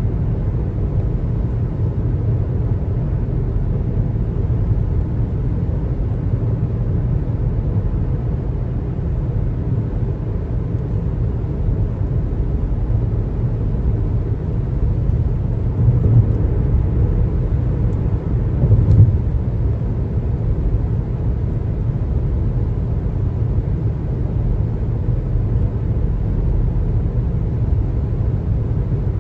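Steady low rumble of a car's tyre and road noise while driving, with two brief louder swells about halfway through.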